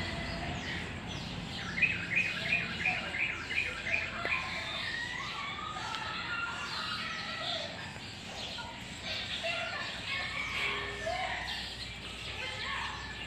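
Small birds chirping and calling throughout, with a fast run of about nine repeated chirps starting about two seconds in.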